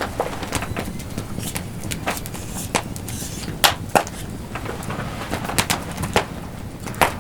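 Wood campfire crackling, with irregular sharp pops over a steady low rumble of the flames; the loudest pops come about halfway through and near the end.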